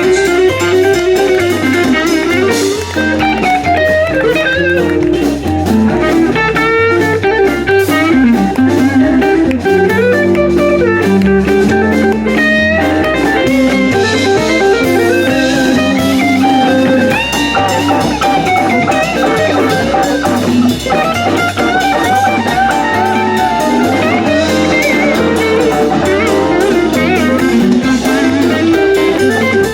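Live blues band playing an instrumental stretch: electric guitar leading over a stepping bass line and drum kit.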